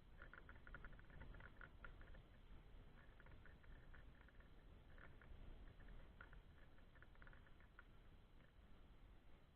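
Stray cats eating: faint, rapid clicking from their mouths as they chew and lick, coming in short runs with brief pauses.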